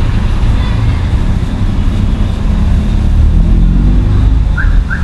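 Road traffic: a motor vehicle's engine running close by, its note rising toward the end. Two short high chirps come just before the end.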